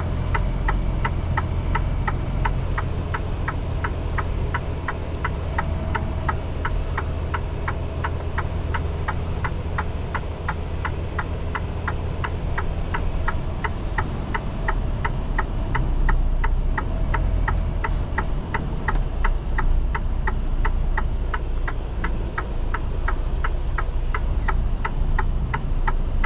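Inside a Freightliner truck cab: the diesel engine's steady low rumble, with an even, rapid ticking of the flashers at about three clicks a second.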